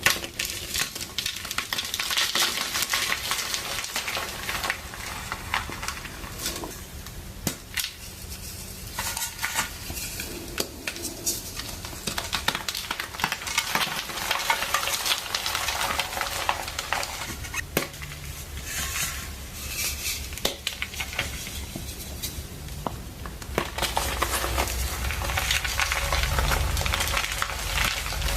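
A pressed gym chalk reform being crushed and crumbled by hand, a continuous crunching with many small sharp crackles, getting fuller and deeper near the end.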